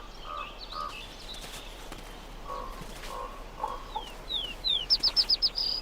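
Birds calling and singing: short repeated notes through the first few seconds, then quick falling whistles and a rapid run of high notes near the end.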